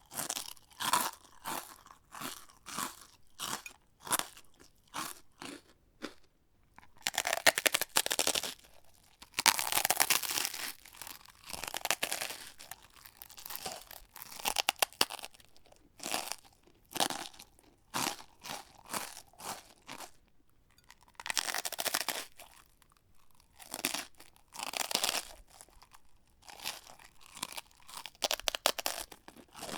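A person chewing a crunchy snack: a quick run of short crunches at first, then longer, louder bursts of crunching, then a regular chewing rhythm.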